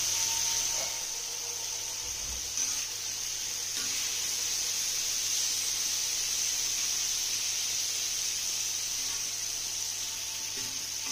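Tomatoes frying in oil on a hot tawa, giving a steady sizzling hiss, with one light knock of a utensil about two and a half seconds in.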